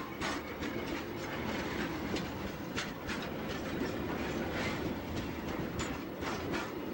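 Freight train wagons rolling past, a steady rumble of wheels on rail with irregular clanks and clatter from the cars.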